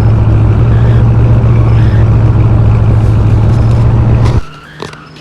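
Loud, steady low drone of a moving car heard from inside the cabin: engine and road noise. It cuts off abruptly about four seconds in, leaving only a few faint clicks.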